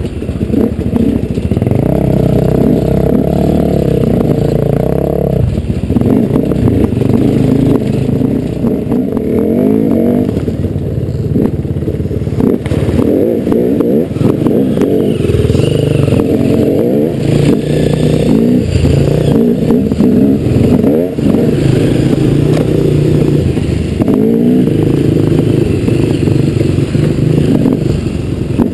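Dirt bike engine running under load, its revs rising and falling repeatedly as the bike is ridden, with some clatter.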